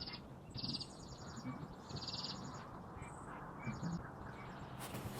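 A songbird singing short, high, rapid trills: three clear ones about a second apart, then two fainter ones.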